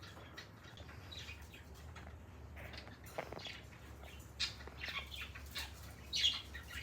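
Pet parrot giving short, high chirps and chatter, sparse at first and coming faster and louder in the second half.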